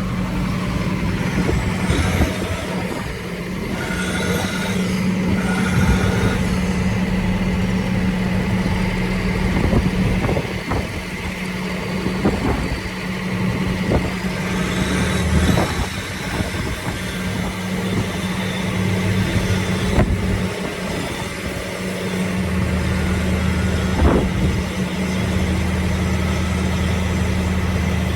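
Engine of heavy farm machinery running steadily, with scattered knocks and clanks; a deeper engine note comes in about three quarters of the way through.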